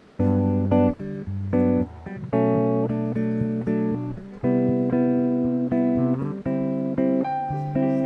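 A live band starts a song about a quarter second in, playing guitar chords over a bass line, with a chord change every half second to a second.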